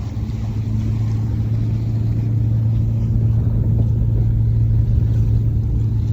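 A boat's engine running steadily, a constant low drone with a deep hum and no change in speed.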